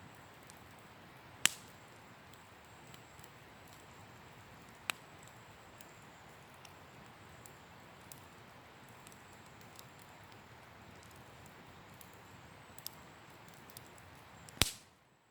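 Wood campfire burning with a soft steady hiss and a few sharp pops of crackling wood, the loudest pop near the end, after which the sound cuts out abruptly.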